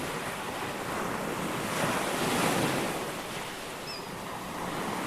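Ocean waves washing in, swelling to a louder surge about two seconds in and easing off, with one brief faint high chirp near the end.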